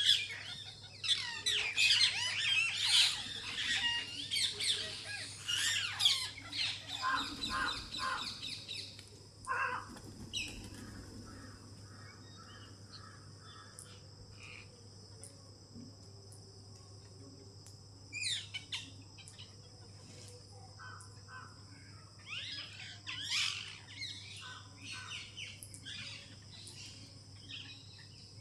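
Many birds squawking and chirping in a dense chorus for the first third, then scattered calls, over a steady high-pitched drone.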